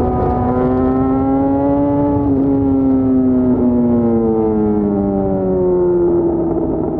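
Yamaha FZ6's 600 cc inline-four engine running at high revs. The pitch climbs a little for about two seconds, then falls steadily as the revs drop toward the end.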